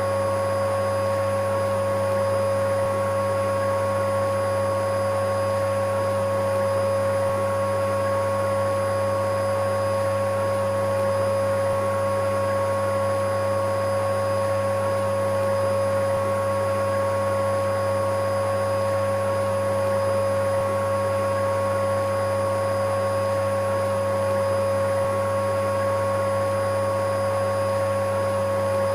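Electric vacuum cleaner running continuously at one unchanging pitch: a steady motor whine over an even rushing hum.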